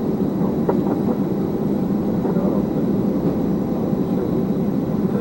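Steady drone of an Airbus A320's jet engines while it taxis, a constant low rumble with no change in pitch.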